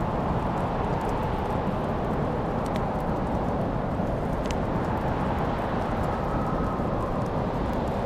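Wood fire in a fireplace burning, with a few sharp crackles and pops scattered over a steady low rumble.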